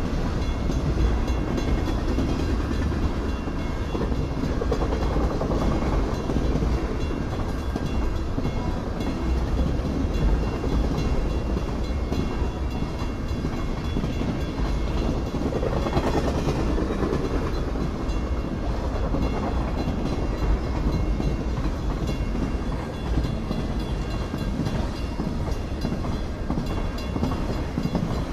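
Freight train's cars rolling past on the rails: a steady low rumble that holds at an even level throughout.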